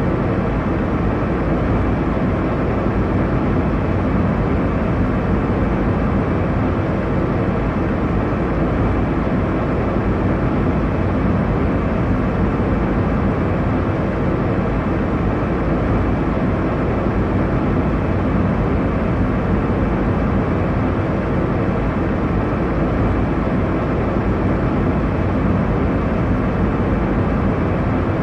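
Airliner cabin noise: the steady, even rumble and rush of the engines and airflow heard from inside the passenger cabin, deepest in the low end, with no change in level.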